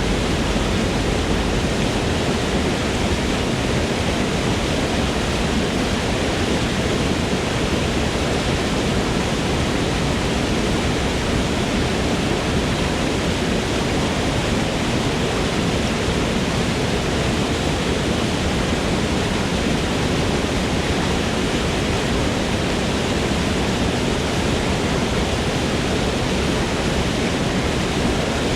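Waterfall rushing steadily in a forest, a loud, even roar of falling water with no breaks or changes.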